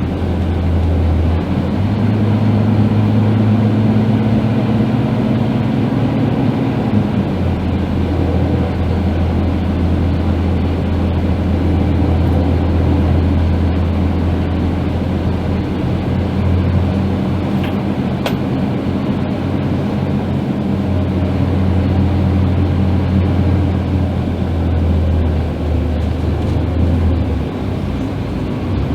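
Scania K310IB bus's diesel engine running under way, a steady low drone whose pitch steps up about a second and a half in, then drops around seven seconds in and again near the end as engine speed changes.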